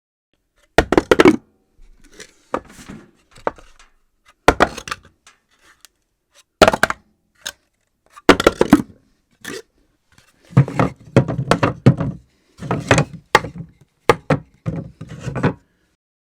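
Assorted objects dropped onto a hard floor, about a dozen drops at irregular intervals, each a sharp impact and some followed by short clattering bounces. The drops come closer together in the second half.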